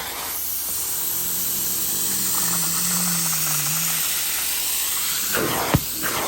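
Carpet-cleaning extractor wand working a rug, a steady hiss of spray and suction. Near the end the sound shifts and there is a sharp click.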